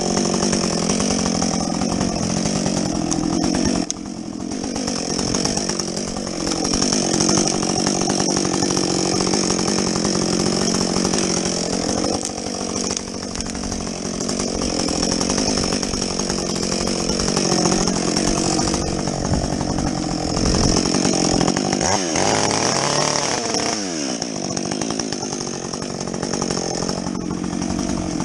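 Husqvarna 562XP two-stroke chainsaw with a modified muffler, running hard while cutting through logs, its engine pitch sagging and recovering under load. Near the end the revs drop and then climb back up.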